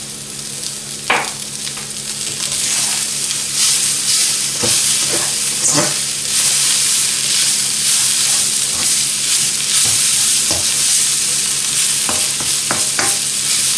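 Kale, raisins and toasted sesame sizzling in a wok while a spatula stirs them, with scrapes and knocks of the spatula against the pan. The sizzle swells about two seconds in.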